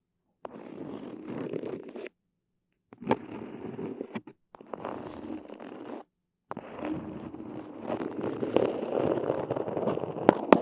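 Close-miked sticky sounds: crackling, peeling and ripping noise from a tacky surface being handled. It comes in four bursts separated by short silences, with a few sharp clicks.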